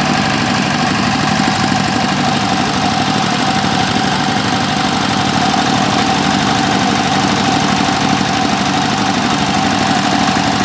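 Engine of a water-well drilling machine running steadily, with a rapid even beat and a steady whine over it.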